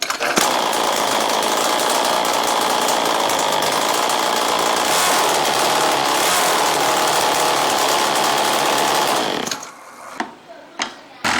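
A power tool running steadily for about nine and a half seconds, then cutting off; a few short knocks and a brief burst of the tool follow near the end.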